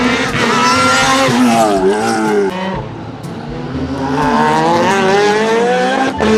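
Race car engine revving: a continuous engine note that dips in pitch about two seconds in, then climbs steadily and cuts off near the end.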